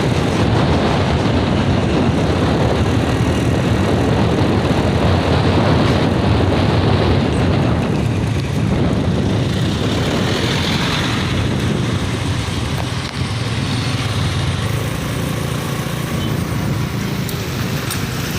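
Vehicle engine and road noise heard from a moving vehicle on a hill road, running steadily and loud.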